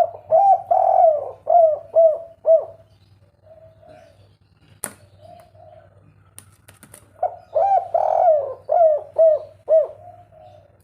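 Spotted dove cooing in its three-note 'kuk 3' song type: two loud phrases of several quick, arching coos, with fainter coos in between. A sharp click sounds about five seconds in, over a steady low hum.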